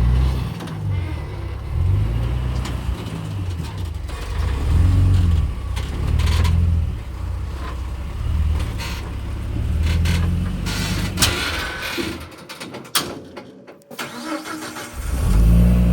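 Off-road vehicle's engine revving in repeated surges as it crawls over a trail obstacle, with a few sharp knocks from the vehicle. Near the end the engine drops away for a couple of seconds, then picks up again.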